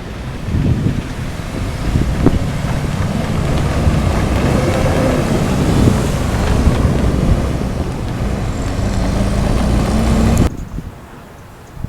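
Amtrak Silver Star passenger train passing close by: a loud rumble of the cars rolling past, with wind buffeting the microphone. It cuts off abruptly about ten and a half seconds in.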